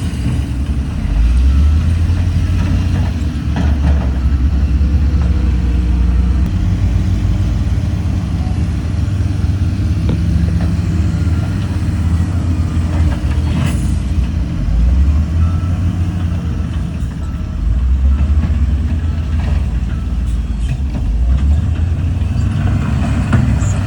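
Heavy diesel engine of earthmoving machinery running under load, its low drone stepping up and down in pitch several times. There is a single sharp clank about halfway through.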